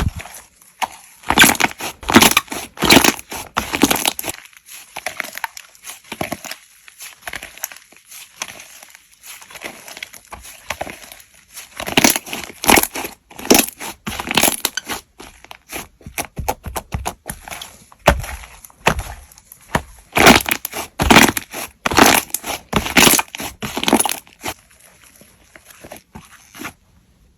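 Slime being squeezed and pressed by hand, making dense runs of small crackling pops. They come in three louder stretches with quieter squishing between, and stop suddenly near the end.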